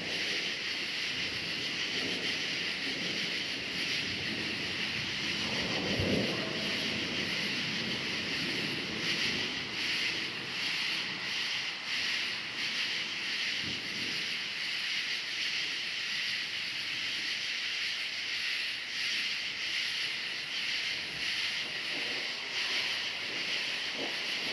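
Crickets chirping in a steady, pulsing chorus, with a brief low rumble of thunder about six seconds in.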